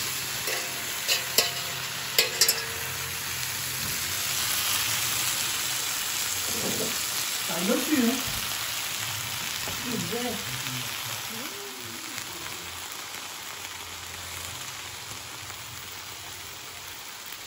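Whole fish and vegetables sizzling on an electric griddle, a steady frying hiss, with a few sharp clicks in the first couple of seconds.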